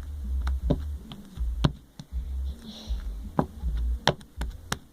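Sticky pink slime being worked by hand, giving a string of sharp, irregular clicks and pops as it pulls away from the fingers, over low thumping handling noise.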